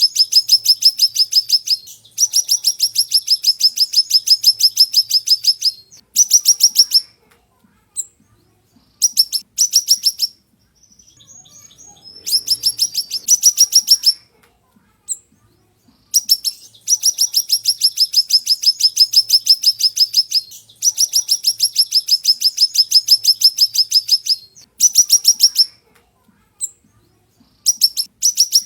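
Siri-siri bird singing sharp, high-pitched trills of rapidly repeated notes, several a second, in runs of up to about four seconds broken by short pauses and brief bursts.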